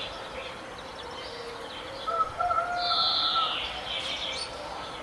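Several birds calling and singing together, with a loud high phrase that falls in pitch about three seconds in and lower held notes beneath it.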